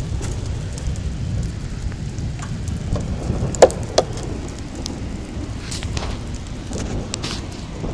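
Rain with hail falling, a steady low rushing noise scattered with sharp ticks of hailstones striking. Two louder sharp knocks come close together about halfway through.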